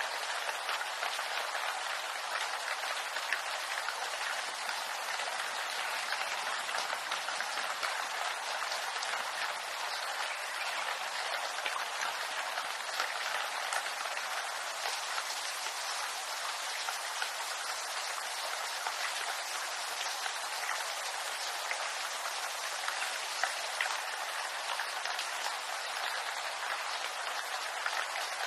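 Steady rain falling on bamboo, a dense even patter of many small drops hitting leaves.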